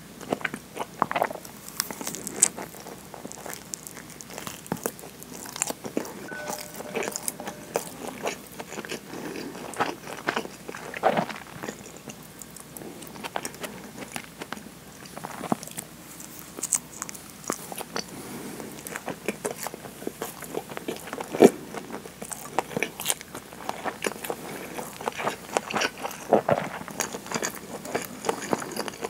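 Close-miked chewing and biting of a nori-wrapped rice ball (onigiri), with many small, irregular wet mouth clicks and snaps.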